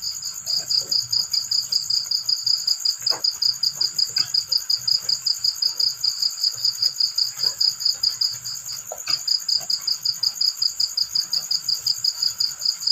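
Field crickets chirping in a fast, even pulse of about five or six chirps a second, breaking off briefly about two-thirds of the way through, over a steady higher-pitched insect trill. Scattered faint ticks sound in the background.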